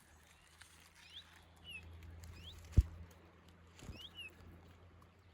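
Small songbird giving short rising call notes, roughly one a second. A single sharp knock near the middle is the loudest sound.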